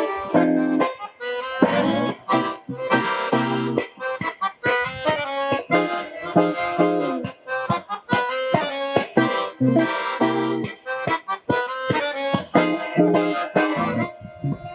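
Accordion and guitar duo playing a lively instrumental tune, the accordion carrying the melody in quick runs of notes over plucked guitar accompaniment.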